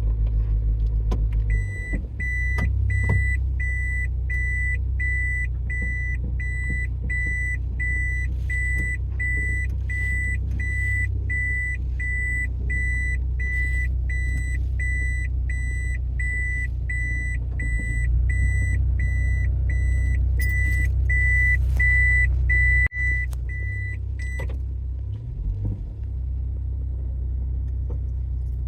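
Toyota bB's engine rumbling steadily with the car running, while an electronic warning buzzer beeps in a steady repeating pattern, about one beep every 0.7 seconds, and stops near the end.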